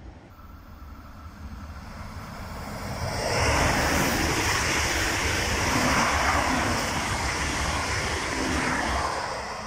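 Alstom Coradia Liner V160 multiple unit passing close by. Its rushing rumble of wheels on rails builds over the first three seconds, stays loud, and begins to fade near the end.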